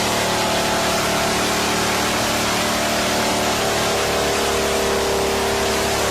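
Monster truck engines running steadily under a loud, even wash of noise. Their pitch drifts slightly about halfway through.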